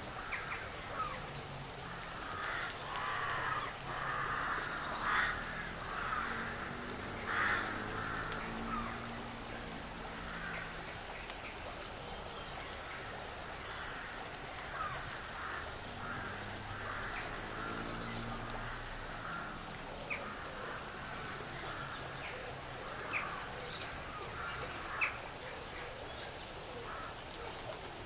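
Crows cawing, a few harsh calls at a time, loudest a few seconds in and again near the end, with small high chirps and a faint low hum beneath.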